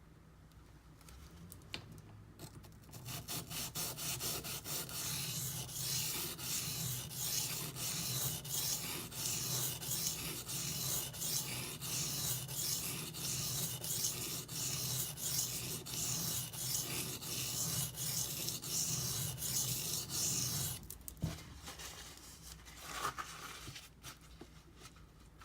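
D2 steel knife blade being stroked back and forth on a silicon carbide sharpening stone: a rapid, steady run of rasping strokes that starts a couple of seconds in and stops a few seconds before the end.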